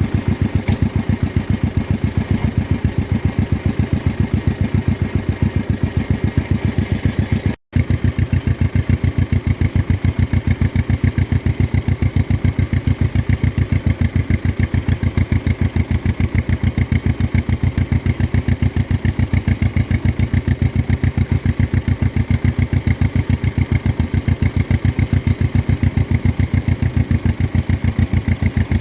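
1953 John Deere 40's two-cylinder engine running steadily at low speed, its even putt of firing pulses close and loud, with a momentary break in the sound about a quarter of the way in.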